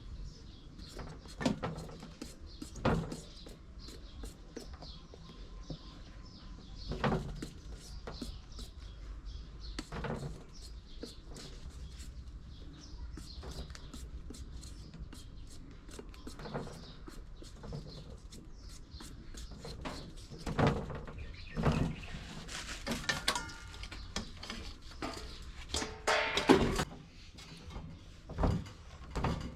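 Scattered knocks and clatter of hand food preparation, a dozen or so irregular strikes, with birds chirping faintly behind.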